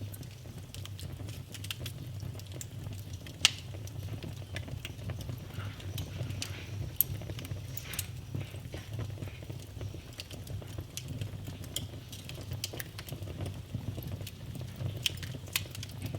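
Wood fire crackling in a fireplace, with irregular small pops and snaps and two sharper pops, over a steady low rumble of the flames.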